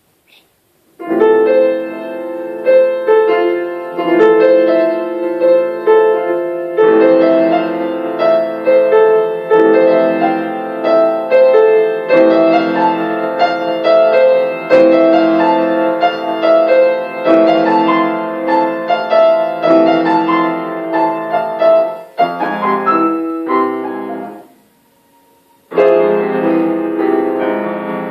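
Solo piano playing a composed piece, starting about a second in, with a short silent pause near the end before the playing resumes.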